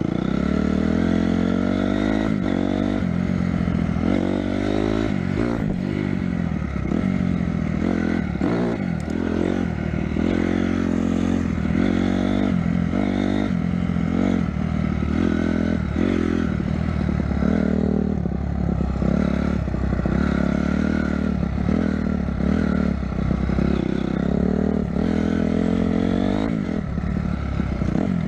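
Motorcycle engine running under way, its pitch climbing and dropping back again and again as the rider accelerates and eases off.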